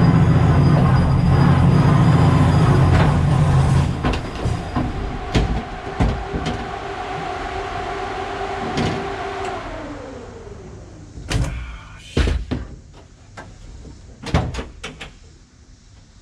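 Supercharged Nissan 240SX engine running loudly, then settling lower, with a whine that falls in pitch and dies away about ten seconds in. A few sharp clunks follow, like a car door.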